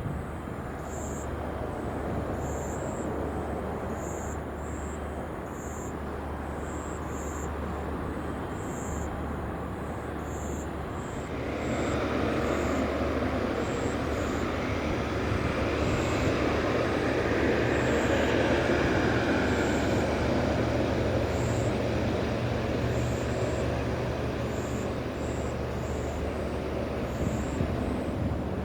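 Jet airliner engines passing by: a steady distant rumble that swells into a loud jet roar about a third of the way in, is loudest around two-thirds through, then eases slightly.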